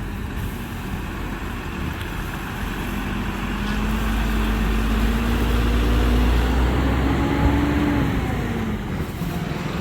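Heavy 16-wheel dumper truck's diesel engine running as the truck moves off, a deep rumble that builds for a few seconds and eases off again near the end.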